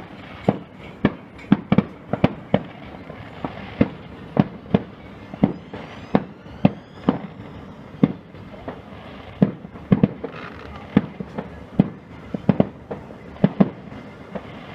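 Aerial fireworks bursting in a rapid, irregular barrage of sharp bangs, about two to three a second, each followed by a short echo, with a faint whistle of a rising shell near the middle.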